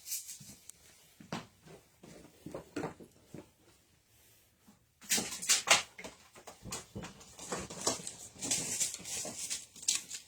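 A dog whimpering in a few short calls, followed by a run of short scraping, rustling noises.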